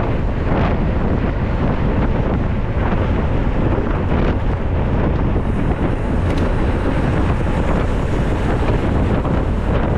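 Wind buffeting the microphone of a mountain bike rider's camera at riding speed, a loud steady rumble heaviest in the low end, with a few faint brief rattles.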